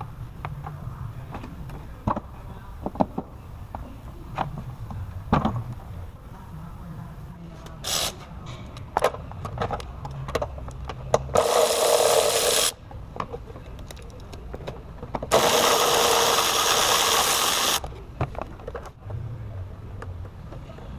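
Hand tools clicking and knocking against metal under the hood of a 2.4 Ecotec engine, with two loud bursts of a power tool in the middle, the first about a second and a half long, the second about two and a half seconds.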